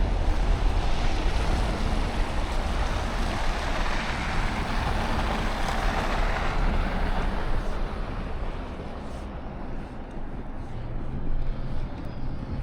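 Blizzard wind rumbling on the microphone, with a rushing noise that swells over the first several seconds and dies down about eight seconds in.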